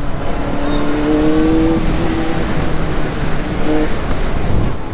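Benelli TNT 600i's inline-four engine running under way, with a steady tone that dips slightly in pitch over the first couple of seconds, mixed with a steady rush of wind on the microphone.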